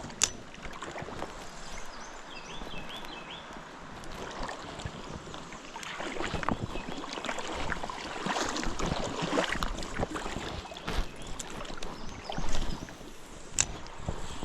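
Creek water running and splashing, with wind on the microphone, swelling louder in the middle; a sharp click near the start and another near the end.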